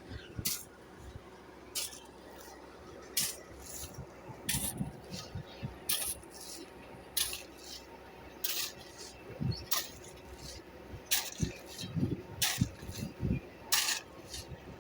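Crushed stone aggregate being worked: short, sharp scrapes and clinks of stone recur about every second or so, with a few dull low thumps between them.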